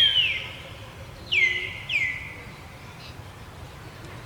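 A bird calling three times, each call a high whistle sliding down in pitch, the second and third close together.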